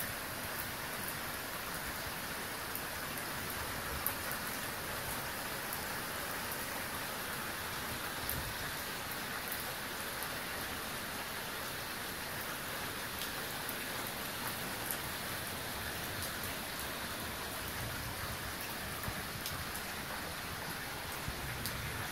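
Rain falling steadily, with single drops ticking sharply now and then.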